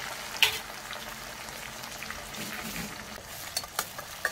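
Onions and tomatoes frying in hot oil in a steel kadhai over a high gas flame, sizzling steadily. A steel spoon stirring clinks against the pan, loudest about half a second in and a few more times near the end.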